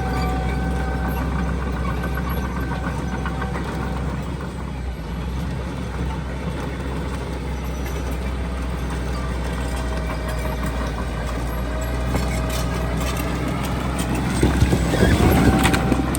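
Heavy diesel earthmoving machinery running steadily with a deep engine hum. About 14.5 s in, it gets louder for a moment, with clanking and a rising whine as the engine works harder.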